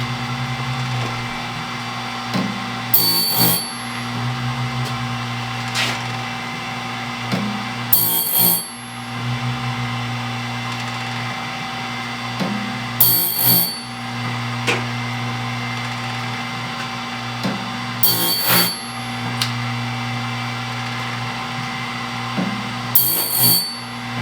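Wood-Mizer BMS250 band-saw blade sharpener running: a steady electric motor hum, broken about every five seconds by a short, loud mechanical burst as the machine works through its cycle, tooth by tooth.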